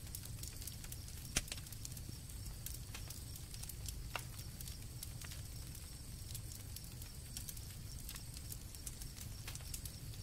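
Campfire crackling, with scattered sharp pops, two of them louder, about a second and a half and four seconds in, over a low steady rumble. A faint steady high trill of crickets runs beneath.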